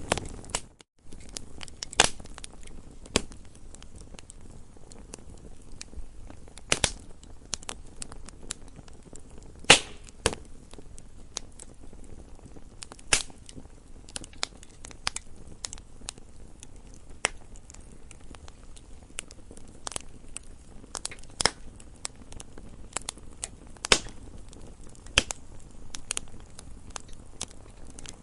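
Campfire burning, with irregular sharp crackles and pops from the burning wood over a low steady hiss. The sound drops out briefly about a second in.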